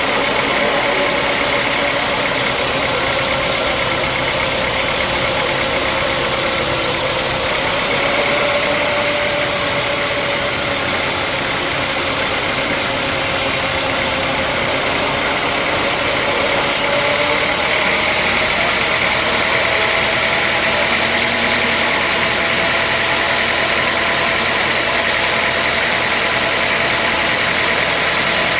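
Sawmill machinery running steadily: a continuous motor drone with a high whine that wavers in pitch and rises slightly about two-thirds of the way through.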